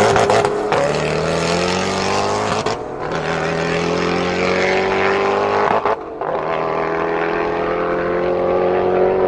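A car engine running at high, sustained revs under load, its pitch climbing slowly, with brief breaks about three and six seconds in.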